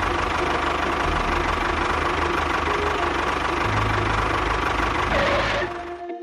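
A small engine running steadily with a low, even pulsing. Its low note shifts a little past halfway, and it dies away near the end.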